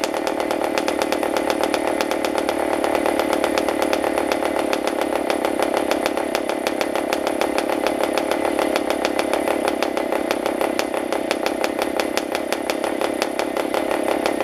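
PAW 40 model diesel, a two-stroke compression-ignition model aircraft engine, running steadily with an even, rapid firing beat.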